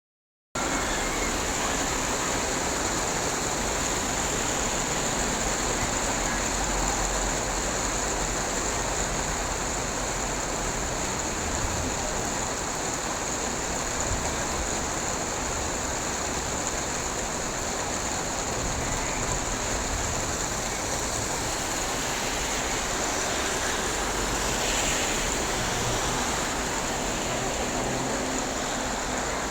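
Summer rain falling steadily: an even, unbroken hiss.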